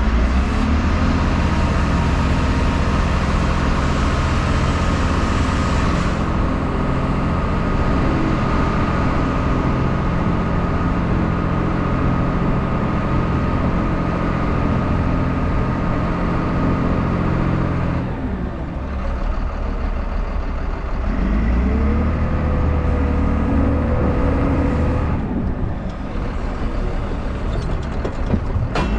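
Log truck's diesel engine running at raised speed to work the log loader's hydraulics while logs are unloaded. It drops back about two-thirds of the way through, then picks up again with a whine that rises and falls, and eases off once more near the end.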